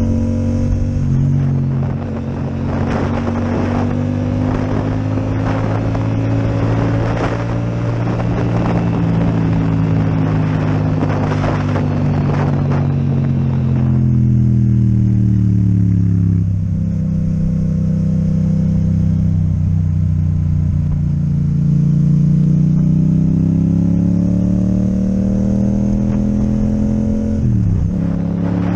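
Yamaha MT-07 parallel-twin engine with an Akrapovic exhaust, running under way. Its pitch rises and falls with the throttle: it sinks in the middle, climbs again, and dips briefly near the end, with rushing wind noise through the first half.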